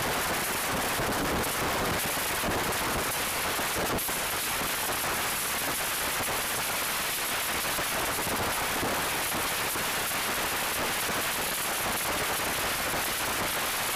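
Express train coach running at speed, heard from an open window: a steady rush of air over a dense, rapid rattling clatter of wheels and coach.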